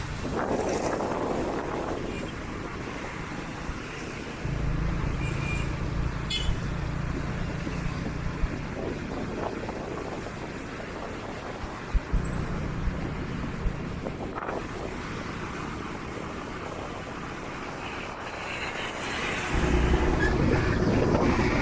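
Street traffic noise, with stretches of low rumble starting about four seconds in, again around twelve seconds, and near the end, and a few short sharp knocks.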